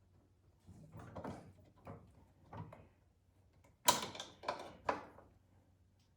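Pliers knocking and clinking against a snowblower's metal oil fill pipe and cap while trying to grip the pipe, which keeps turning. A few light knocks in the first half, then a sharper clank about four seconds in followed by two more.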